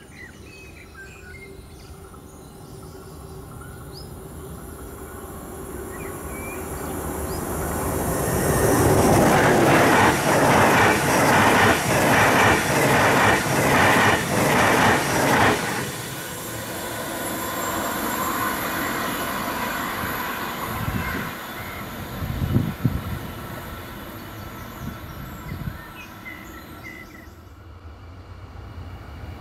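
ICE 2 high-speed electric train approaching and passing at full speed: a rising rush, then a loud run of rhythmic wheel clatter at about two beats a second as the cars go by, which cuts off suddenly. A lower rushing sound follows and fades near the end.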